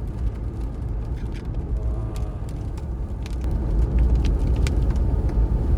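A vehicle's steady low rumble of engine and road noise while driving, with a few faint scattered clicks.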